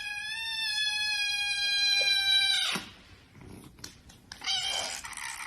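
A domestic cat giving one long, drawn-out meow of about three seconds at a nearly steady pitch, then a shorter, rougher cry near the end.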